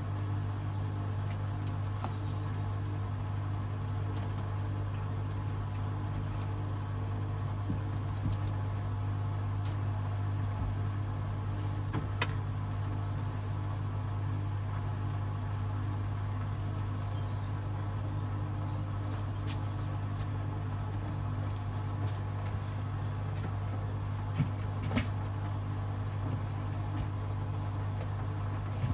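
Hoover DXOA610AHFN-80 front-loading washing machine running steadily with a constant low hum, with a few faint ticks about twelve seconds and twenty-five seconds in.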